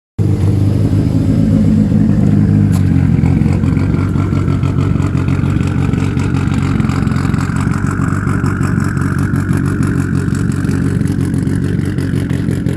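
An engine running steadily, its pitch rising slowly, cutting off suddenly at the end.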